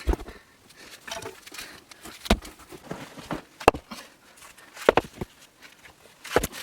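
Stones being handled and set in place: five sharp stone-on-stone knocks at irregular intervals, with softer clatter and scraping between them.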